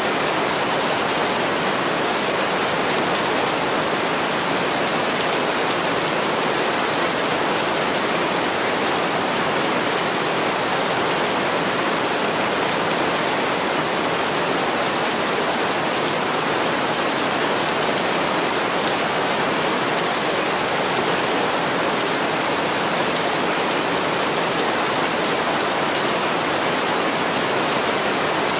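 Heavy rain pouring steadily onto a window, an even, unbroken hiss of falling water.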